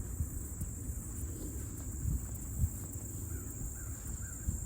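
A bird calling a short series of about four repeated notes near the end, over a low rumble of wind or handling on the microphone and a steady high-pitched insect drone.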